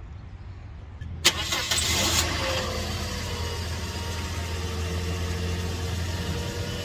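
Toyota Corolla's four-cylinder engine starting: it catches with a short loud burst about a second in, then settles into a steady idle.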